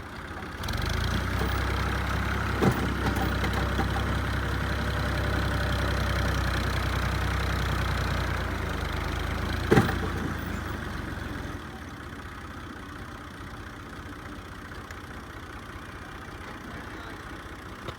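Tractor's diesel engine running steadily with a deep low drone, which comes in much louder about a second in and falls back to a quieter hum after about eleven seconds. Two sharp clicks sound over it, a few seconds apart.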